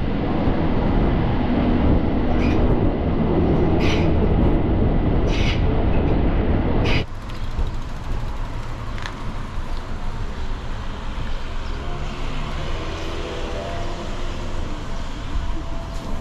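Train running with a steady low rumble and a few short high hisses; about seven seconds in the sound drops suddenly to a quieter rumble.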